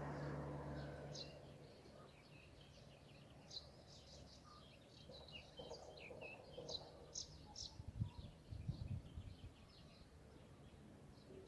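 Small birds chirping faintly: many short, high chirps scattered through, with a few low thumps about eight to nine seconds in. A low hum fades out in the first second or two.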